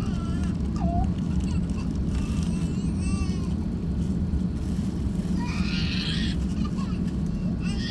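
Steady low rumble of an Airbus A350-1000 airliner with its engines running. Short wavering high-pitched cries or voices sound over it a few times, around three seconds in and again later.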